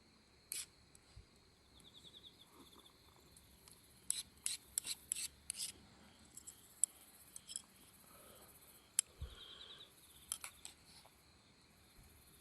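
Irregular sharp clicks and pops, some in quick clusters, with two short, rapid high trills, about two seconds in and near ten seconds.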